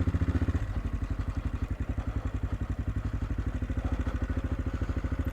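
AJP PR7's single-cylinder four-stroke engine running steadily at low revs, an even thumping beat of about a dozen pulses a second.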